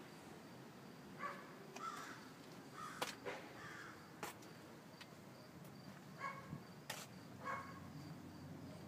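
Faint bird calls: short calls repeated several times, mostly in pairs, with a few sharp clicks in between.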